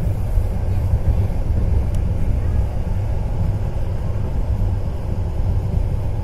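Steady low rumble of a passenger train running at speed, heard from inside the carriage: wheels rolling on the rails and the coach's running noise.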